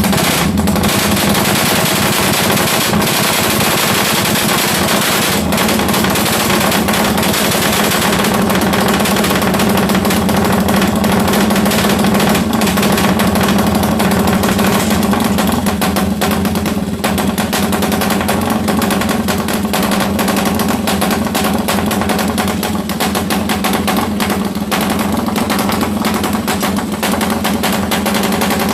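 Suzuki Satria FU motorcycle engine, bored up with an 87 mm piston, running loud at a steady speed with a fast, choppy beat likened to a helicopter.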